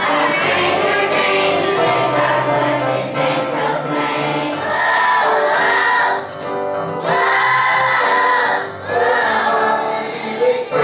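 A choir of young children singing a song in long held phrases, with short breaks between them.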